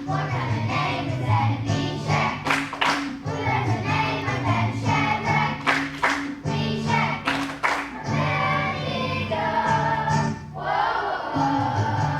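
Children's choir singing a song over recorded accompaniment with a bass line and a steady beat; the voices come through most strongly about eight seconds in.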